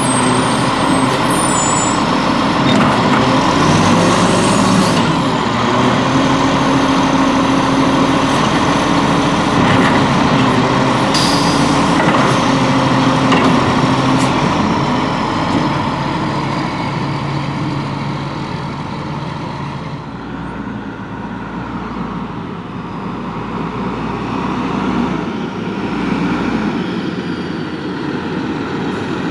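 Volvo WXLL garbage truck with a Labrie Expert 2000 body, its diesel engine running steadily, with a couple of short air hisses in the first half; the truck sound eases off somewhat in the second half.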